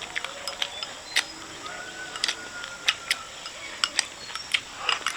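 Eating utensils clicking and tapping against bowls and dishes during a meal: many short, irregular clicks.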